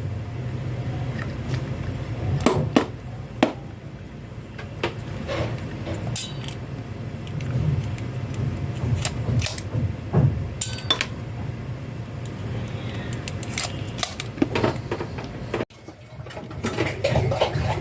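Irregular clicks and knocks of small hard plastic parts being handled, over a steady low hum.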